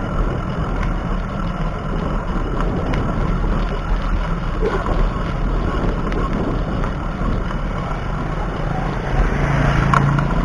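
Steady wind rumble and road noise on the microphone of a chest-mounted action camera riding a moving bicycle. A low hum comes up near the end.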